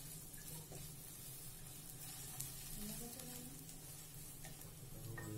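Ground spinach masala paste frying in a little oil in a non-stick pan: a faint sizzle, with a wooden spatula stirring through the paste.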